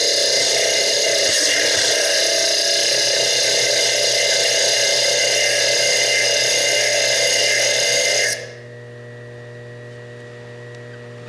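Foredom bench lathe spinning a small diamond slitting disc that cuts into fire agate: a loud, steady, high-pitched grinding whine. About eight seconds in the cutting stops, leaving a quieter steady hum.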